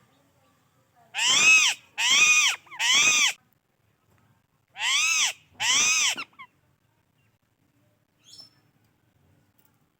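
Psittacula parakeet giving loud calls, each rising and then falling in pitch: three in quick succession, then two more after a short pause, and a faint short one near the end.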